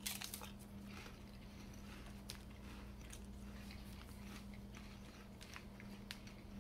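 A bite into a crisp puffed rice cake right at the start, then faint crunchy chewing with many small scattered crackles.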